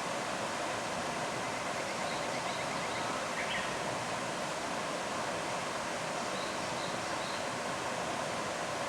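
Steady rush of flowing water from a stream, with a few faint, short, high bird notes about two seconds in and again near seven seconds.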